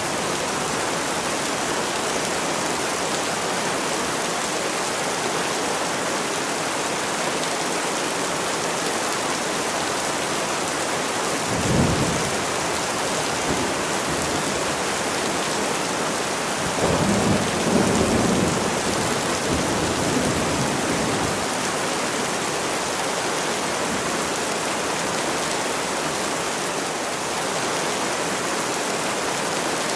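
Steady heavy rain with thunder rumbling twice: a short roll about twelve seconds in and a longer one lasting several seconds a little later.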